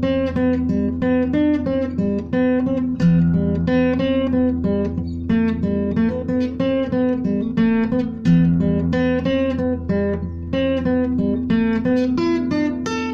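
Acoustic guitar playing an instrumental tune, a steady stream of picked and strummed notes over a low sustained bass.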